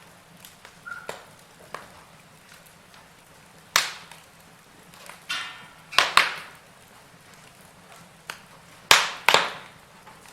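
Logs burning in a fireplace, crackling with scattered sharp pops, some in quick pairs, over a faint low background. A brief hiss comes about halfway through.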